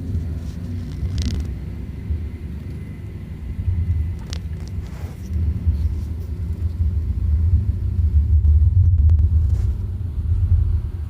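An uneven low rumble, heavier in the second half, with a few faint, brief high-pitched sounds about one and four seconds in.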